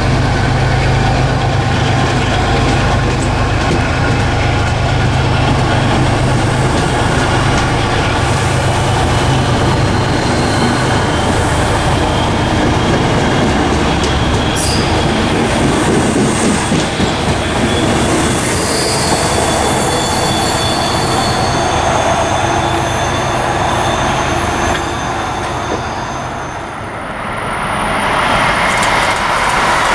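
A train running past, its wheels clattering over the rails and squealing with thin high tones through the second half. The sound dips briefly near the end, then swells again.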